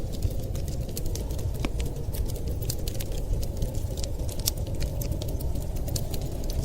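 Wood fire crackling, with many irregular sharp snaps and pops over a steady low rumble.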